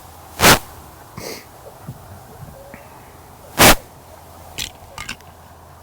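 Two loud, short scratchy bursts of microphone noise about three seconds apart, followed near the end by a few fainter clicks.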